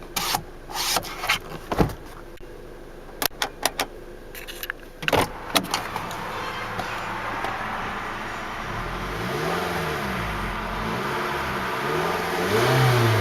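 2009 Scion xB's 2.4-litre four-cylinder engine running and being revved up and down several times in the second half, each rev a rising then falling pitch, the last one loudest. Before that come a series of sharp clicks and knocks.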